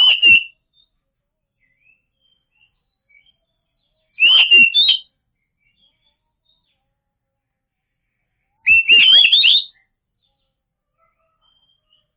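Oriental magpie-robin (kacer) singing: three short bursts of whistled, warbling song phrases, at the start, about four seconds in and about nine seconds in, with silence between.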